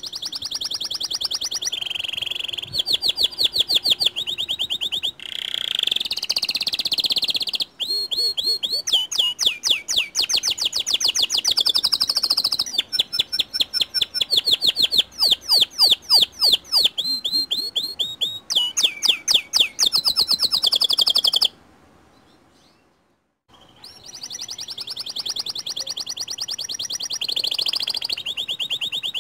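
White domestic canary singing long song phrases of rapid rolling trills and chirps. It breaks off for about two seconds roughly three quarters of the way through, then takes up the song again.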